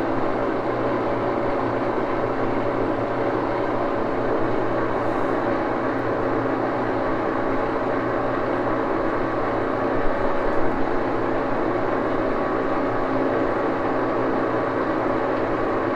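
Axelson engine lathe running steadily in its slow back gear, a constant hum of several tones from its gearing, with a couple of small knocks about ten seconds in.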